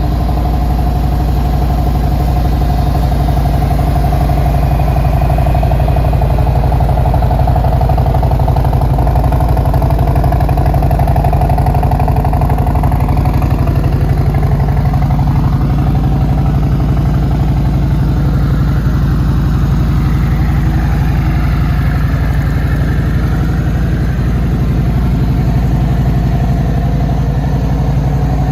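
Harley-Davidson Road Glide Special's Milwaukee-Eight 114 V-twin idling steadily through aftermarket TAB Performance mufflers.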